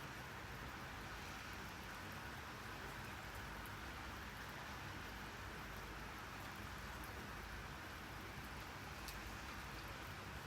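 Steady rainfall: an even hiss of falling rain with a few faint, separate drop ticks.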